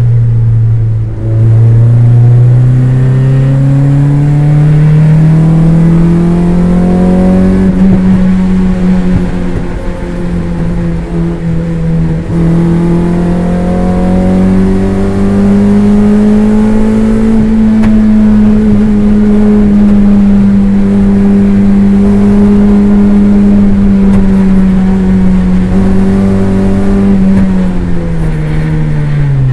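Toyota MR2 race car's engine heard from inside the cabin, pulling hard with its pitch climbing over the first several seconds, then held at high revs on a long flat-out stretch before the revs drop sharply near the end as the driver backs off.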